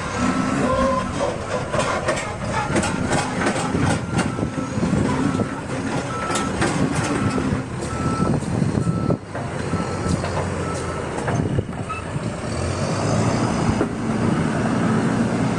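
Heavy diesel machinery running, with a reversing alarm beeping at an even pace for about ten seconds, then stopping. Sharp knocks and clatters run through the first half.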